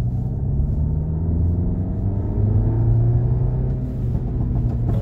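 A Stage 2 tuned Audi A3's turbocharged four-cylinder engine accelerating, heard from inside the cabin. Its pitch rises steadily for about three seconds, then eases off with a brief dip about four seconds in.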